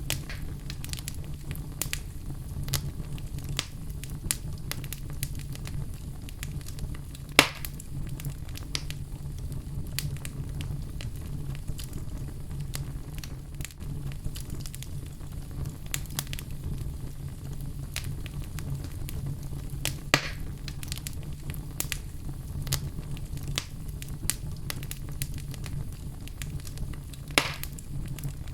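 Wood fire burning in a fireplace: a steady low rumble of the flames under scattered sharp crackles, with three louder pops from the logs.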